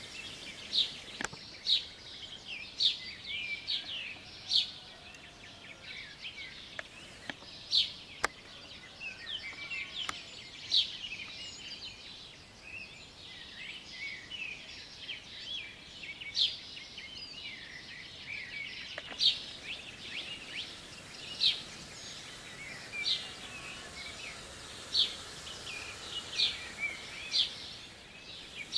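Songbirds singing in a morning chorus: many short, sharp, high chirps and calls repeating every second or so, over a steady background hiss.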